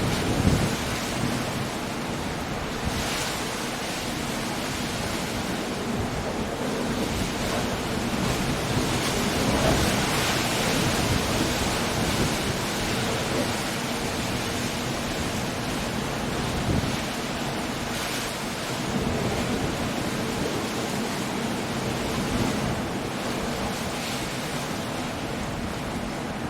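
Coastal storm: sea waves breaking against rocky cliffs amid wind and rain, a continuous dense rush that swells about ten seconds in. A low rumble comes right at the start.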